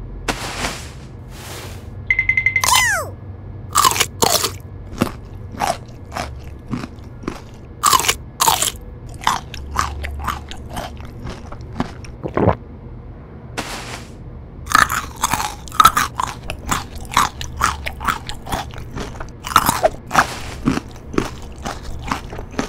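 Crisp, irregular crunching and chewing of raw vegetables, bite after bite. There is a short falling tone about two and a half seconds in.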